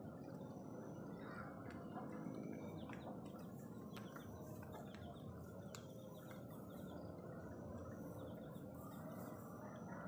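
Birds chirping briefly and sparsely, a handful of short high calls scattered through, over a faint steady low background noise.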